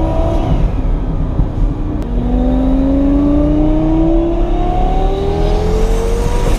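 Twin-turbo Lamborghini Gallardo V10 accelerating hard, heard from inside the cabin. Engine pitch drops about two seconds in with a brief click at a gear change, then climbs steadily through a long pull in the next gear, dropping again at the end.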